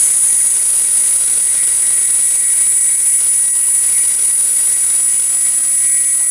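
DeWalt cordless air inflator running steadily, pumping air through its hose into an air mattress: a loud rushing hiss with a steady high whine on top.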